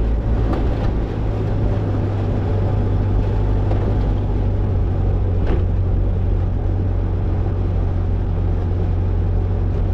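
Toyota Tercel 4WD wagon's four-cylinder engine running steadily while the car drives a dirt trail, a low drone, with two brief knocks about half a second in and again about five and a half seconds in.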